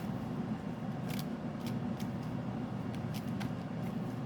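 Tarot cards being shuffled by hand: a run of short, sharp card slaps, irregularly spaced, over a steady low background hum.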